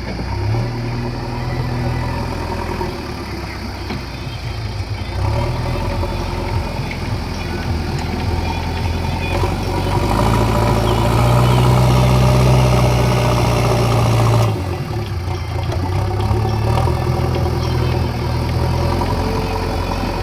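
JCB 3DX backhoe loader's diesel engine running steadily. About ten seconds in it rises to a louder, higher note, holds it for a few seconds, then drops back suddenly.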